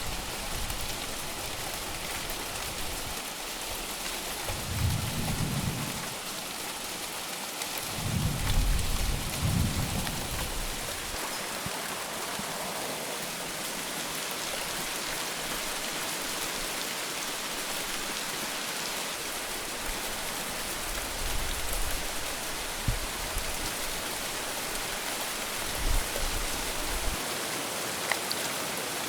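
Steady heavy rain, with low rumbles of thunder about five seconds in and again around eight to ten seconds, and fainter rumbles later on.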